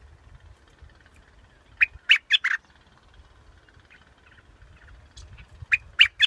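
Bulbul calling, used as a decoy call: two short phrases of about four quick, loud notes each, roughly four seconds apart.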